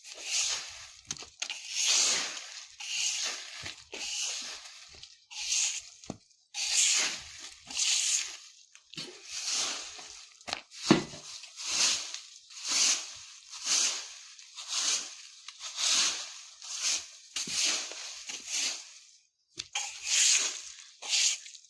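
A broom sweeping fallen leaves on the ground, in regular swishing strokes about once a second with a rustle and crunch of leaves on each stroke, and a short pause near the end.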